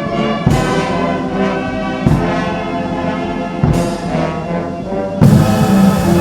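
Brass band playing slow, sustained chords, a new chord about every second and a half. The music grows louder and fuller about five seconds in.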